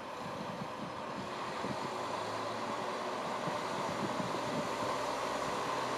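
JR Hokkaido KiHa 40 diesel railcar pulling away and gathering speed, its engine and running noise growing gradually louder.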